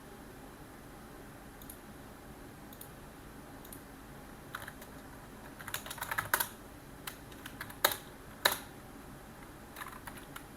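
Computer keyboard typing in irregular keystrokes: a few scattered taps, a quick run of keys about six seconds in, then several sharper single key presses.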